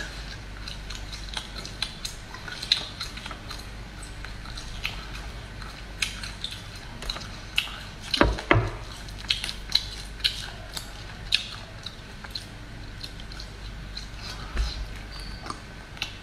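Chewing and tearing dried duck neck: many short sharp clicks, with a louder cluster about eight seconds in.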